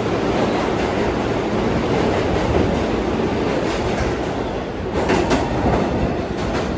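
New York City subway train running through the station, a steady wheel-on-rail noise with a few sharp clacks about five seconds in.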